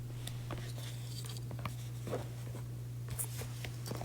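Steady low electrical hum with scattered faint clicks and brief rustles, like small handling noises.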